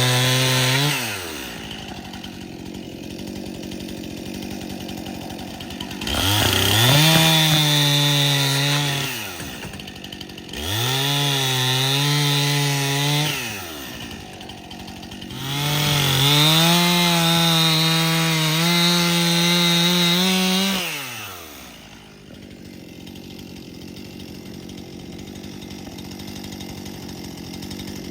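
Chainsaw engine revved up to full speed and let back down to idle three times, each burst held for a few seconds, after the tail of an earlier rev at the start.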